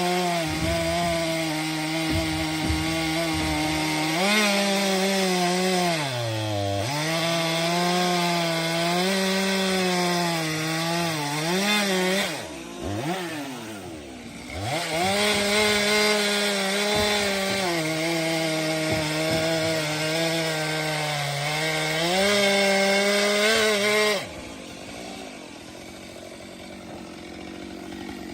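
STIHL MS 462 C-M two-stroke chainsaw running at high revs through firewood, its engine note sagging and recovering under the load of the cut. About twelve seconds in it drops to a lower note for two seconds before revving back up, and a few seconds before the end it falls to a quieter, lower running.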